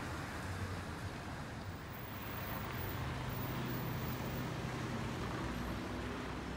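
Street traffic: a motor vehicle's engine running close by, its low steady hum growing stronger about two and a half seconds in, over a constant wash of street noise.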